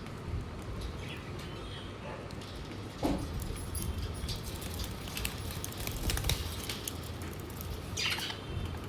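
Pet budgies giving short chirps and fluttering their wings, with small scattered clicks and a brighter burst of chirping near the end, over a steady low hum.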